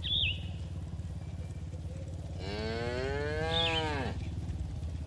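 A cow mooing once, a long call of nearly two seconds that rises and then falls in pitch, over a steady low hum. A short high chirp sounds near the start and another during the moo.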